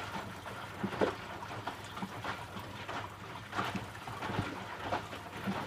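Electrolux W455H commercial washing machine's drum tumbling wet laundry in water, with irregular sloshing and splashing surges, during the conditioner rinse.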